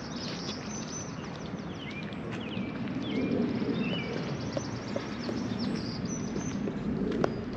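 Small songbirds chirping, many short rising and falling calls one after another, over a steady low rumble of background noise, with one sharp click near the end.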